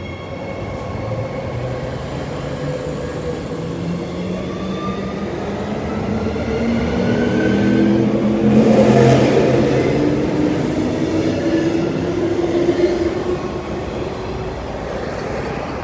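Transperth Bombardier B-series electric multiple unit pulling out of the station: its traction motor whine rises steadily in pitch as it accelerates. A rush of passing cars and wheels is loudest about nine seconds in.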